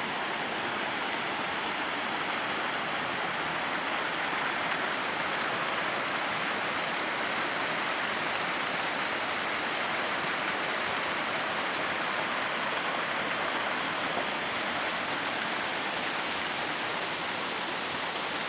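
Waterfall rushing steadily: an unbroken hiss of falling and splashing water, strongest in the upper range, with no pauses or changes.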